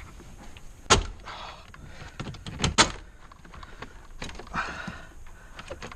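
Knocks, clicks and scraping as a car dashboard is tugged and worked loose from its mounts. Two sharp knocks, about a second in and near three seconds in, are the loudest.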